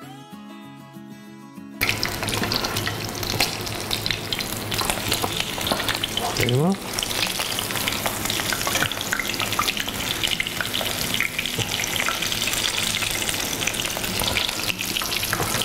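Battered cheese pieces coated in crushed toasted corn (kikos) sizzling and crackling in hot oil in a frying pan. Guitar music plays for a little under two seconds, then the frying cuts in suddenly and runs steadily.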